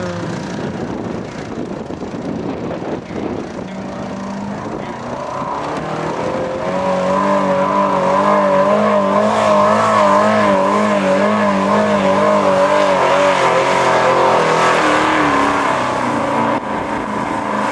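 Pulling truck's engine at high revs under full load, dragging a weight-transfer sled down the track. It builds up about six seconds in and then holds loud, its pitch wavering up and down, before easing off near the end.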